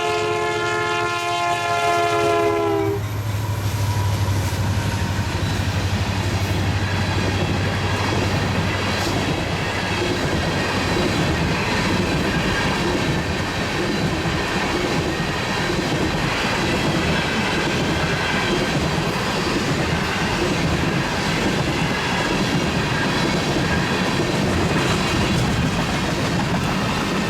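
CN freight train passing at speed. The locomotive's horn sounds a chord that cuts off about three seconds in. After that the cars roll by with a steady wheel clatter.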